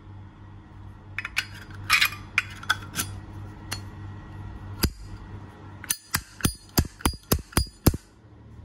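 Brass Zippo lighter being worked by hand: its hinged lid clinks open and snaps shut in a run of sharp metallic clicks, ending in about eight quick ones near the end.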